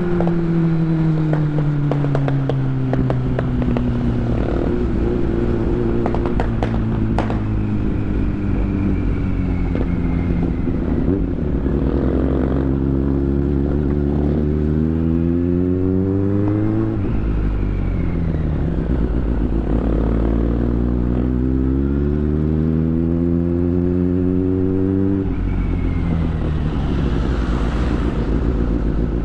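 Superbike engine under way: its pitch falls at first as the bike slows, then climbs steadily under acceleration, dropping sharply at an upshift just past halfway and again near the end. Wind noise rushes underneath.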